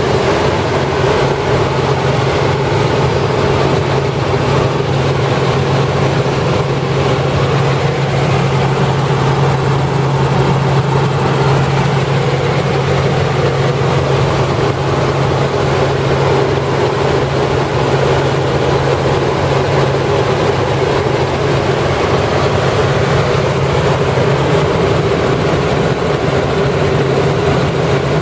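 Helicopter running steadily in flight: a constant low hum under an even rush of engine and rotor noise.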